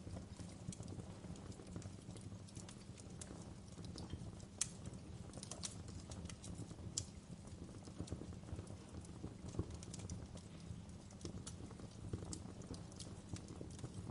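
Fire crackling in a fireplace: a steady low rumble of flames with irregular sharp pops and snaps, a few of them louder.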